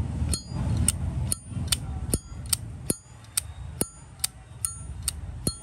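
Zippo lighter's hinged lid being flicked open and snapped shut over and over: a quick, even run of sharp metallic clicks, about two and a half a second, each with a brief bright ring.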